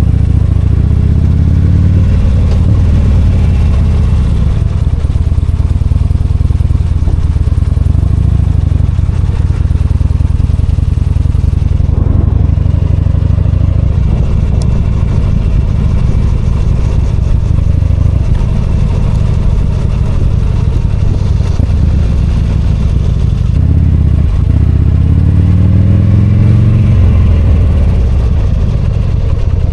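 V-twin motorcycle engine running while riding, heard from the rider's seat. Its revs dip and then climb again about three-quarters of the way through.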